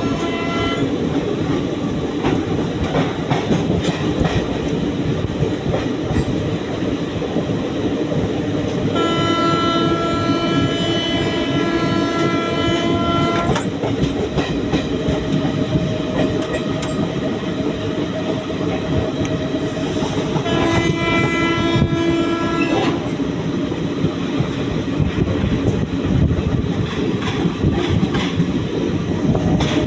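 A moving train running with a steady rumble and clickety-clack of wheels over the rails. A train horn sounds twice: a long blast of about four and a half seconds near the middle and a shorter one of about two seconds later on.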